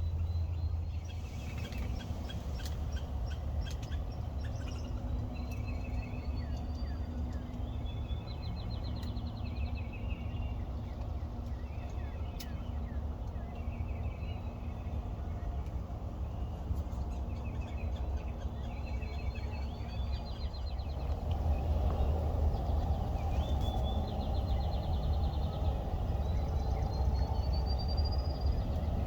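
Songbirds singing in the early morning woods, a run of rising whistles and short trills repeated again and again, over a steady low rumble; a broader rushing noise joins about two-thirds of the way through.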